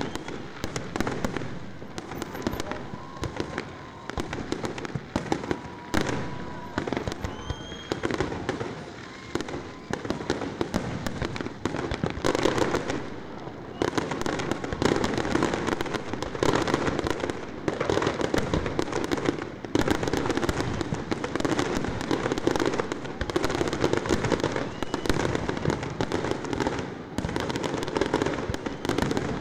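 Fireworks display: aerial shells bursting in a rapid string of bangs and crackles, growing denser and almost continuous about halfway through, with a few brief whistles earlier on.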